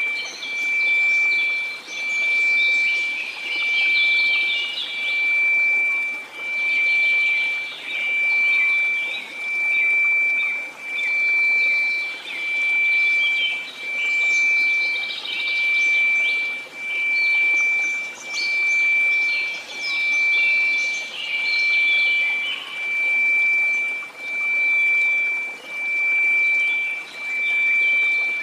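A steady 2334 Hz sine tone over a soft bed of white noise, swelling and fading in volume a little under once a second. Scattered short high chirps run through it.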